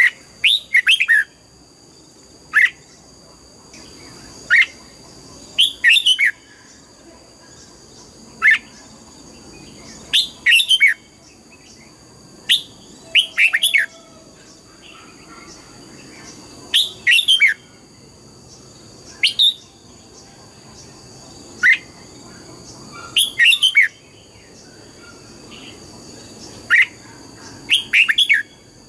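Red-whiskered bulbul singing: short phrases of quick, clear whistled notes that sweep downward, given in bursts every two to three seconds. A faint steady high whine runs underneath.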